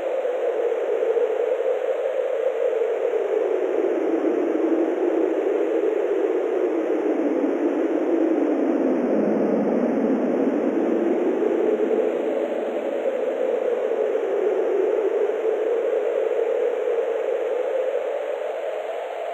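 Steady wind noise, a hiss that slowly falls in pitch to its lowest about halfway through, then rises again.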